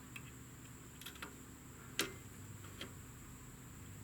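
A few faint, scattered clicks and taps of small metal parts being handled and fitted back onto the motorcycle's rear brake pedal assembly, the sharpest about two seconds in.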